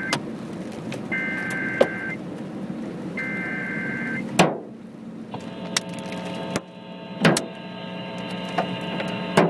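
Emergency Alert System tornado warning over the car radio: three bursts of buzzing data tones, each about a second long, then a steady two-tone attention signal starting about five seconds in. Hailstones hit the car with sharp clicks now and then, over steady road noise.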